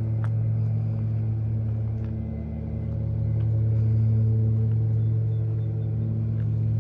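Daihatsu Hijet refrigerated vendor truck running with a steady low hum that swells slightly midway.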